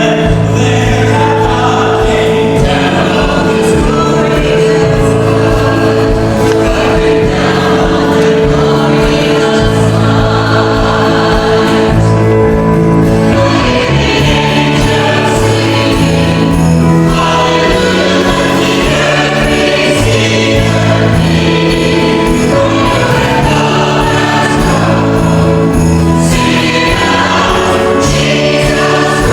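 Church choir singing with instrumental accompaniment, held notes and changing chords throughout.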